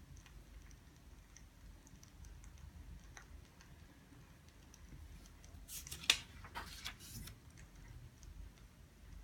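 Quiet desk sounds of someone studying: faint scattered ticks and clicks, then about six seconds in a brief rustle with one sharp click.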